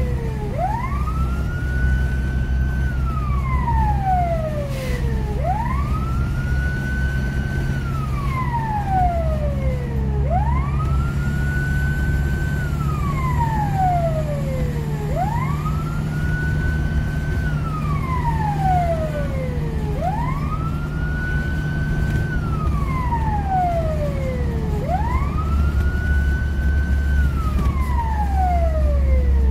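Fire engine siren wailing in a repeating cycle: a quick rise, a short hold at the top, then a slow slide down, about once every five seconds. A steady low engine and road rumble runs underneath.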